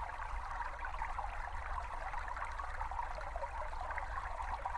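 Small brook babbling and trickling steadily over stones.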